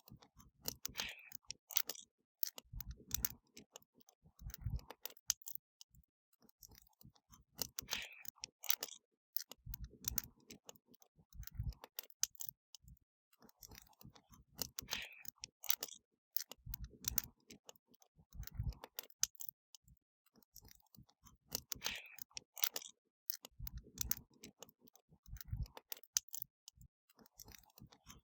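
Wood fire crackling: dense sharp pops and snaps, with clusters of deeper thuds among them, in a pattern that repeats about every seven seconds.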